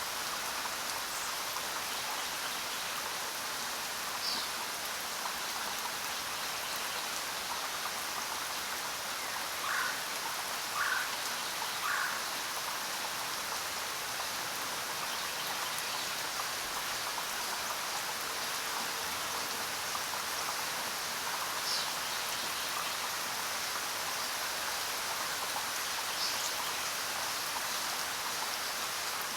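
Steady rain falling in a jungle, an even hiss. About ten seconds in, an animal gives three short calls about a second apart, and a few brief high chirps come through the rain at other moments.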